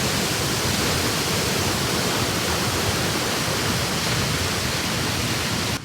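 Roughly 10-metre waterfall on a river, its falling water making a loud, steady rush that cuts off abruptly near the end.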